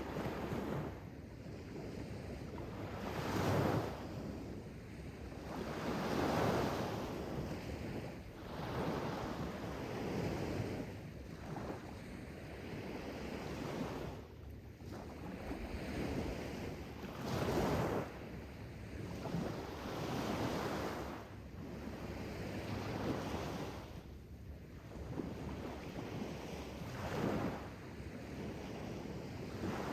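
Sea waves breaking and washing in, a steady rush of surf that swells into louder surges every few seconds.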